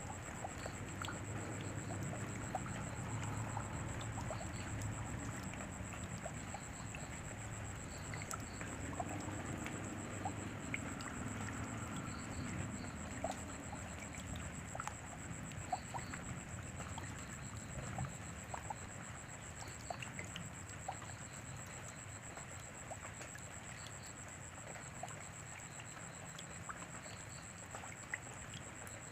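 Steady rainfall with scattered drips ticking, under a constant thin high-pitched whine.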